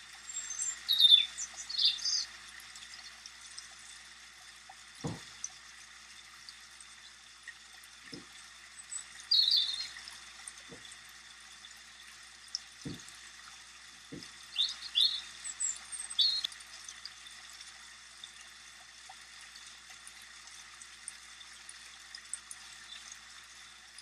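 Small birds chirping in a few short clusters of high, quick notes over a steady hiss, with a handful of faint low knocks between them.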